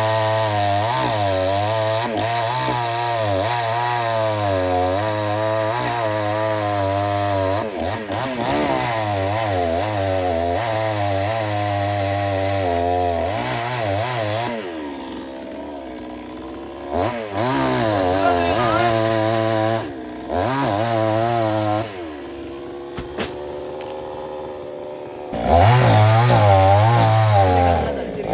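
Two-stroke chainsaw cutting a coconut palm, its engine pitch wavering up and down under load. About halfway through it drops to a quieter idle with a few short revs, then runs loud again near the end.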